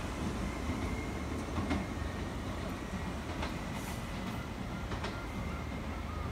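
Hankyu electric train running away down the track, with steady low rumble and sharp wheel clicks over the rail joints about every second and a half, slowly fading.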